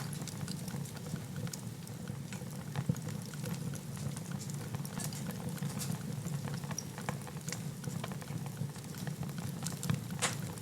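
Wood fire burning in a fireplace: scattered crackles and pops over a steady low rush of flames, with one sharper pop near the end.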